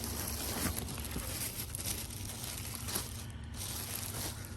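Soft rustling and crinkling of things being handled, over a steady low hum.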